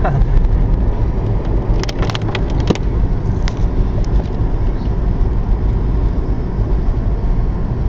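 Car driving, heard from inside the cabin: a steady low engine and road rumble, with a few sharp clicks about two seconds in.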